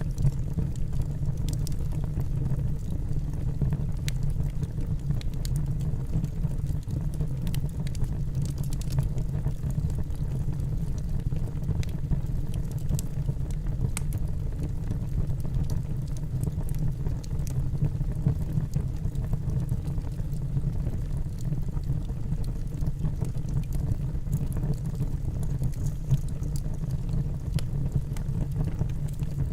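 Wood fire burning in a fireplace: a steady low rumble of the flames with scattered small crackles and pops from the logs.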